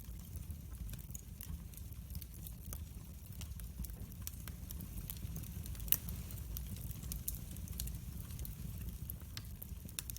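Wood fire crackling in a fireplace: frequent small pops and ticks over a steady low rumble, with one louder pop about six seconds in.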